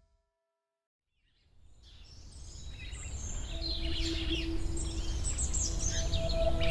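Silence for about a second and a half, then birdsong fades in: many quick high chirps and trills, joined about halfway by low steady held tones.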